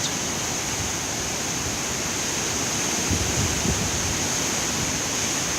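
Hurricane-force wind making a steady rushing noise, with low surges of gusts about halfway through.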